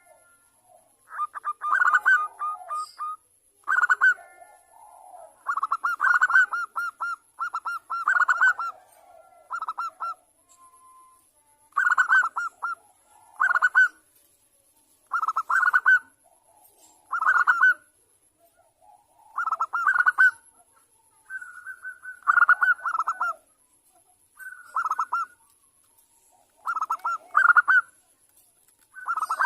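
Bangkok-type zebra dove (perkutut) singing: short phrases of rapid, staccato trilled coos, repeated every second or two.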